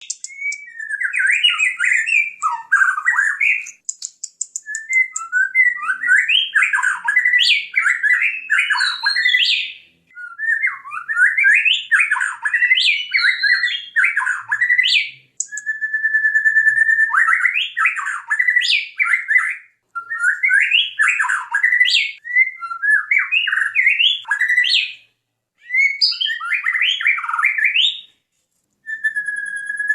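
White-rumped shama singing loudly, phrase after phrase of varied whistles, trills and rapid notes, each phrase a few seconds long with short pauses between. A couple of phrases open on a long, steady whistle.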